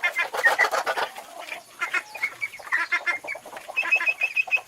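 Several chickens clucking in short, overlapping calls, with a quick run of short repeated notes near the end.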